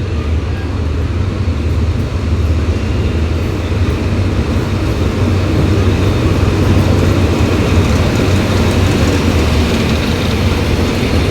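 Passenger train running with a steady low rumble that grows slightly louder.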